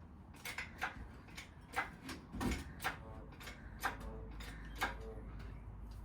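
Irregular clicks and light knocks of hand tools and engine parts being handled, about ten in all, a few with a short metallic ring.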